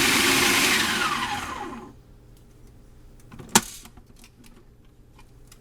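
Food processor running as it purees hummus, switched off about a second in and spinning down with a falling whine over the next second. A single sharp click follows about three and a half seconds in.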